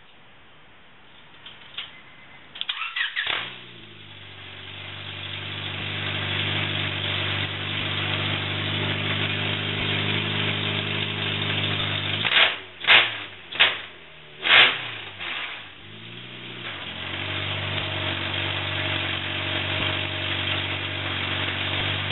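Honda H22A Euro-R four-cylinder engine running on open headers with no exhaust. It cranks over briefly and fires on its first start, then idles loudly. About halfway through it is blipped sharply four times and settles back to idle.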